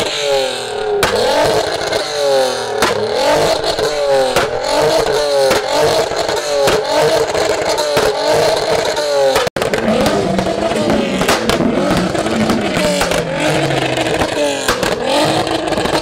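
Car engines revved again and again in quick blips, the pitch rising and falling about twice a second. About halfway through there is a sudden cut, after which an engine revs lower and more slowly.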